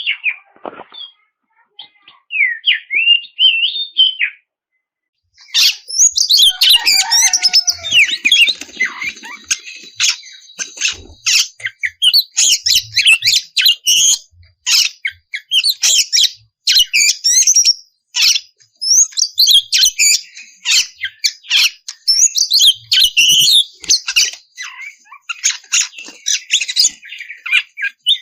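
Oriental magpie-robin (kacer) singing: a few whistled phrases, a short pause about four seconds in, then a dense, rapid, unbroken stream of varied whistles, chatters and harsh notes through the rest. This is the bird in full, continuous song (gacor).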